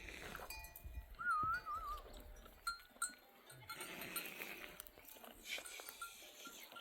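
A flock of sheep and goats bleating now and then, with short repeated tinkles from animal bells. A brief warbling whistle-like call, the loudest sound, comes about a second in.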